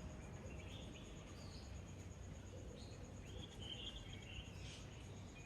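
Faint morning birdsong: short scattered chirps and calls, over a steady high pulsing insect trill and a low background rumble.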